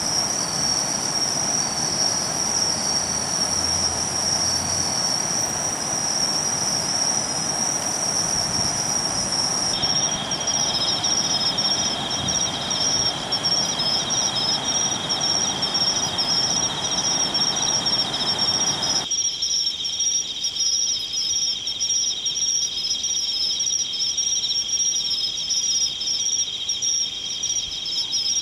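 Insects, crickets among them, singing a steady high trill, joined about a third of the way in by a second, lower, fast-pulsing trill. A rushing background noise under them cuts off suddenly about two-thirds of the way through, leaving only the insect trills.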